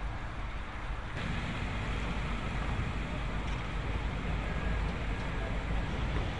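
Steady rumble and hiss of outdoor noise, louder from about a second in.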